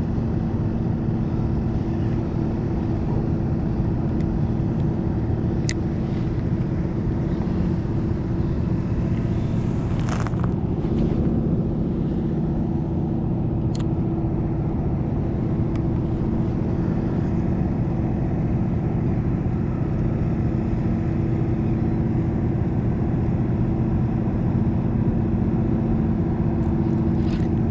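A motor running steadily with a low, even hum, with a couple of faint sharp clicks.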